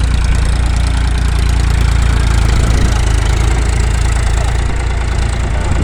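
Powertrac 439 DS tractor's diesel engine running steadily, a loud low-pitched rumble.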